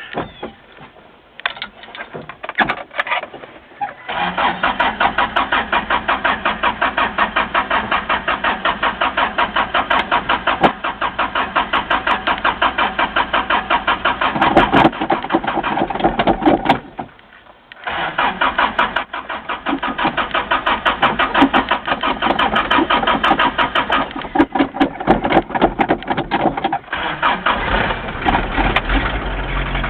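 Toyota truck engine being cranked by the starter, a long rhythmic churning that stops briefly about halfway and then resumes. Near the end the engine catches and settles into a steady idle.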